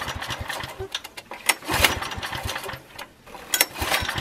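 Small generator engine cranking and firing unevenly in irregular bursts, with brief dips, rather than settling into a steady run: hard starting with an ignition coil taken from a different engine model.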